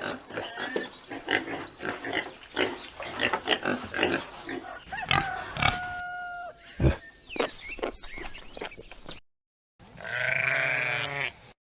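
Pigs grunting irregularly for about nine seconds, with one brief, steadier higher-pitched call midway. After a sudden cut and a short gap, a wavering animal bleat sounds near the end.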